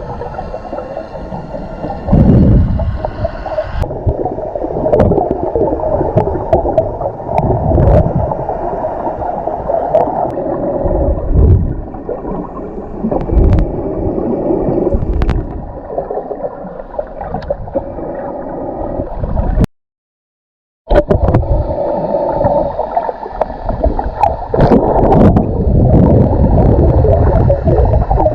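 Muffled underwater sound of water sloshing and gurgling against the camera, with scattered small clicks. The sound cuts out completely for about a second roughly twenty seconds in.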